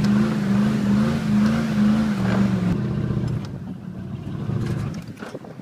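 Dodge Ram 1500 pickup's engine running hard with a wavering pitch, then easing off and going quieter about three seconds in.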